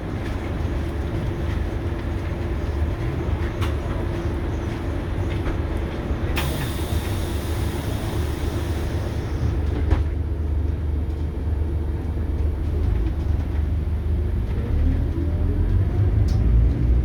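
Scania K280UB bus's DC9 diesel engine running with a steady low rumble, with a burst of air hiss about six seconds in lasting about three seconds and a few sharp clicks. Faint rising tones come in near the end.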